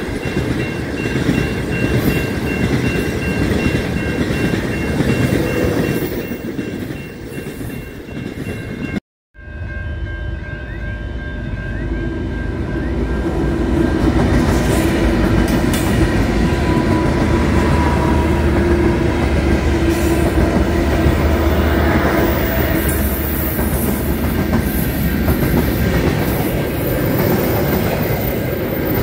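Freight trains passing close by, wheels rumbling and clattering on the rails, with thin steady squeals on top. The sound drops out for a moment about nine seconds in. After that a second train passes, its diesel locomotive adding a steady low engine drone as it goes by, followed by its wagons.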